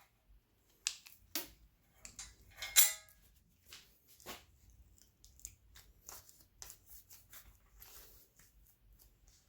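Irregular small clicks, knocks and scrapes of metal bike parts and tools being handled, with one louder metallic clink about three seconds in that rings briefly.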